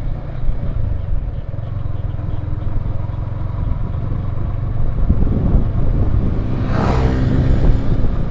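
Yamaha Vixion R single-cylinder motorcycle running on the road, with engine rumble and wind rushing over the microphone. About seven seconds in there is a brief, louder swell of engine sound and rushing noise.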